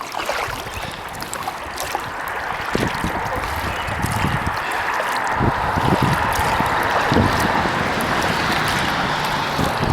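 Kayak paddling: water splashing and trickling off the paddle blades, with wind buffeting the microphone as a low irregular rumble from about three seconds in.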